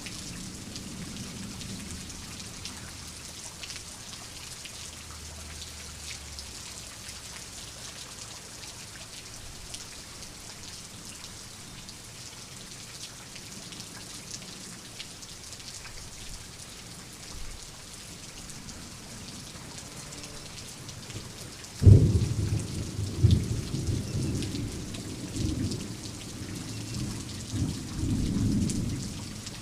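Steady rain hissing, then about two-thirds of the way through a sudden close thunderclap that rolls on in several rumbling peaks until near the end.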